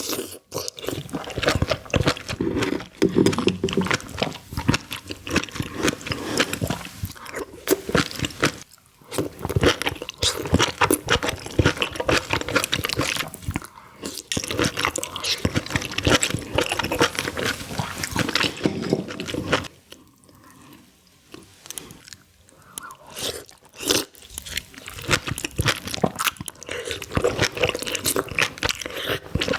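Close-miked eating of seafood: wet biting, chewing and mouth sounds in quick irregular clicks and smacks, dropping off briefly about two-thirds of the way through.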